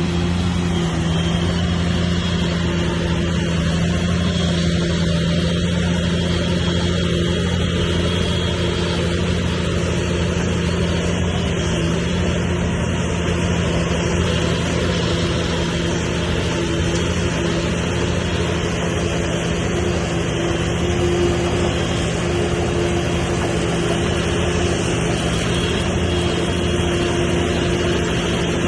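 Bulldozer's diesel engine running steadily at a constant low pitch, with no clear revving or change in load.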